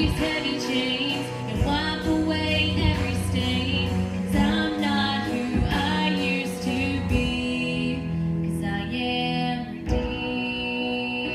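Song with a female voice singing over instrumental accompaniment, settling into long held notes near the end.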